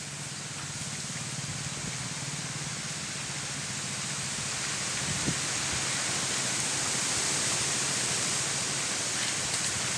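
Strong wind rushing steadily through a bamboo clump, slowly growing louder.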